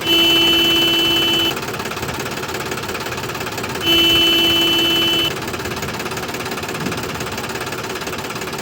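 A small engine running steadily with a fast knocking rattle, overlaid by two long, steady horn beeps about four seconds apart, each lasting about a second and a half.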